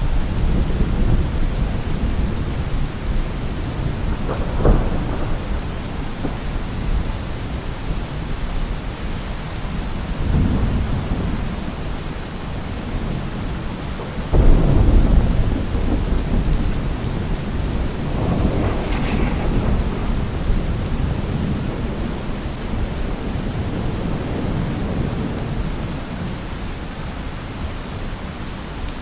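Steady heavy rain with rolling thunder. A sharp thunder crack comes about five seconds in, and a loud clap about fourteen seconds in rumbles away over several seconds.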